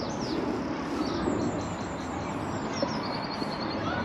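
Small birds chirping and singing in short, quick phrases of repeated high notes, over a steady low background rumble.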